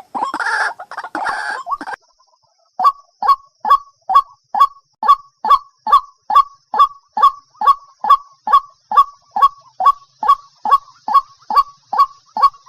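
White-breasted waterhen calling: two harsh, noisy bursts, then, after a brief pause, a steady run of short calls with a falling pitch at a little over two a second.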